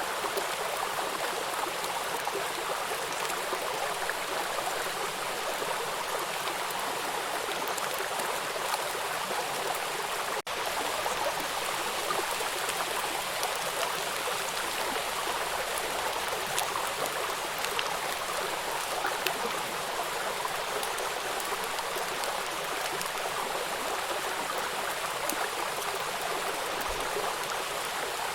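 Waterfall in a river: water rushing over rocks in a steady, dense hiss, with one split-second dip about ten seconds in.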